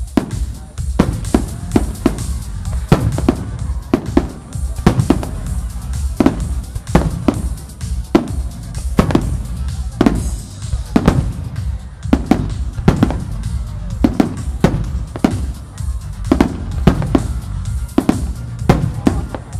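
Aerial firework shells bursting one after another, sharp bangs roughly once or twice a second, over loud music with a heavy bass playing along with the display.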